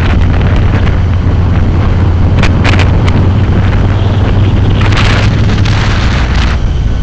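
Heavy wind buffeting the microphone of a moving bike, a loud, steady low rumble with hiss that swells twice.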